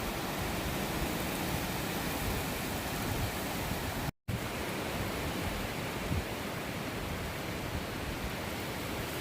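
Strong gusty wind rushing over the microphone as a steady, even roar of noise. It cuts out completely for an instant about four seconds in.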